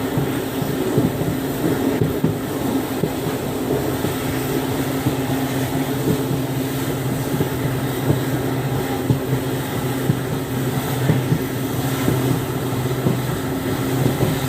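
WDP4B diesel locomotive's EMD 710 two-stroke engine running, a steady low drone.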